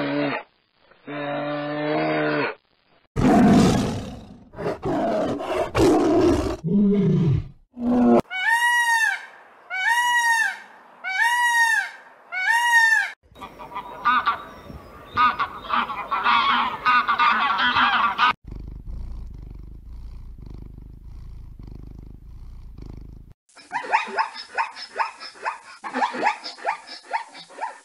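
A run of different animal calls cut one after another. After two short pitched calls comes a brown bear's loud, rough roaring, then four arching calls about a second apart, a stretch of noisy chatter and a low rumble, and near the end a rapid series of zebra barks.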